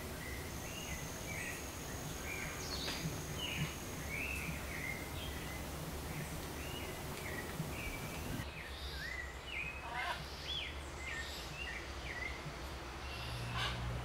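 Small birds chirping, short whistled notes repeating a couple of times a second, with a thin high steady whine in the first few seconds and a few longer rising calls about ten seconds in.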